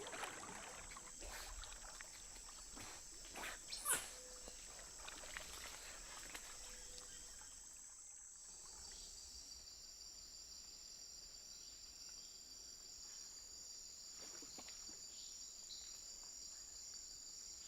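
Rainforest insects keeping up a faint, steady, high-pitched chorus. A few brief sounds come in the first few seconds, the loudest about four seconds in, and a couple more about fourteen seconds in.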